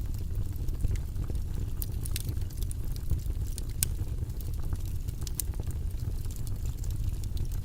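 Steady deep noise-track rumble (white noise), even and without pitch, with scattered faint short clicks over it.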